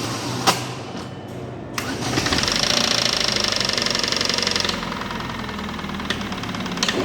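Used contract car engine running, louder and higher for a couple of seconds after two sharp clicks, then settling back to idle. The owner says it is running on three cylinders, a misfire.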